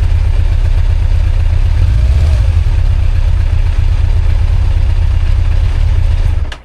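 Kawasaki ZZR1100 inline-four motorcycle engine idling steadily; this engine is blowing heavy white smoke, which the owner puts down to oil getting past the valve seals or rings, or coolant getting into the cylinders. The sound cuts off abruptly near the end.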